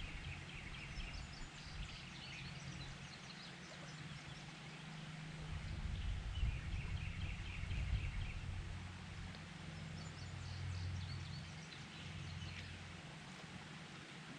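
Birds chirping in repeated quick runs of short high notes, over a low rumble with a steady hum that swells in the middle.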